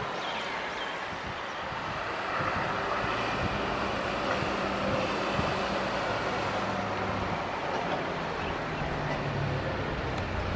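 Boeing 777-300 airliner's twin jet engines at takeoff thrust, heard as a heavy, steady rumble with a low drone that grows louder about two seconds in.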